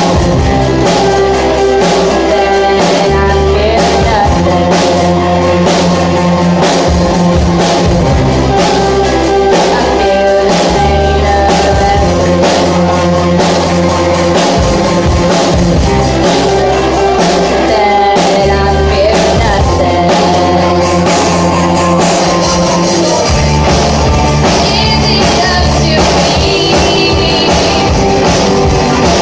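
Rock band playing live: electric guitar, bass and drum kit at a steady beat, with sung vocals at times.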